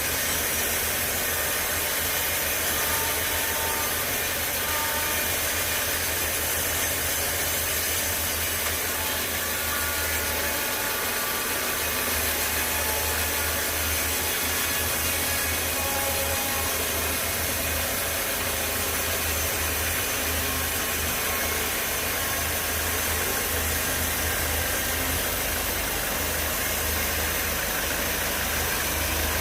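Sawmill machinery running steadily: a low motor hum under a constant high hiss.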